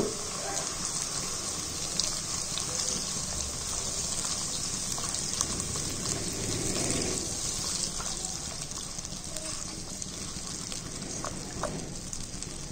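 Tomato paste sizzling in hot oil in a karahi, a steady frying hiss, with a spoon stirring it through the pan and a few light clicks of the spoon.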